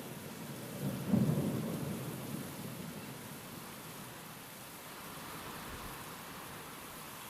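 Steady rain with a low rumble of thunder that starts about a second in and fades away over the next couple of seconds.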